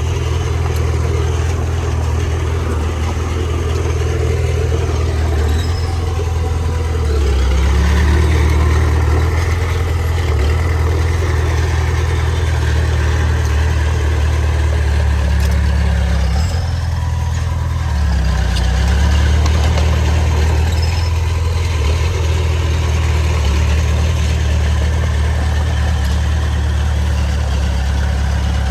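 Heavy diesel engine of earthmoving machinery running steadily, getting louder about a quarter of the way in and again past the middle as it takes load.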